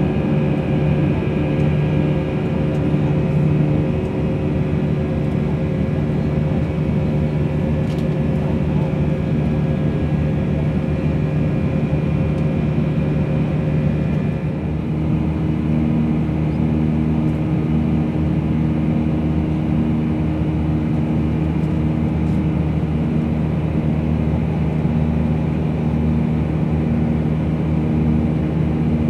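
Airbus A319 cabin noise in flight: the steady drone of the jet engines and airflow, with several steady engine tones. About halfway through, the tones shift to a new, slightly different set of pitches.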